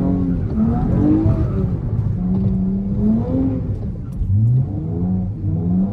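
Car engine revving up and down repeatedly, its pitch climbing and falling in quick surges as the car is slid on wet pavement.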